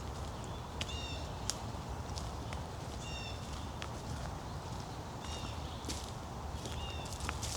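Footsteps along a woodland trail, with a bird repeating a short call of a few notes about every two seconds.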